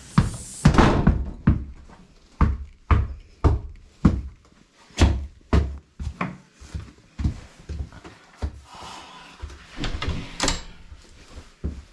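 An irregular series of sharp thumps and knocks, up to about two a second, with a louder cluster near the start and a brief rustling stretch about two thirds of the way through.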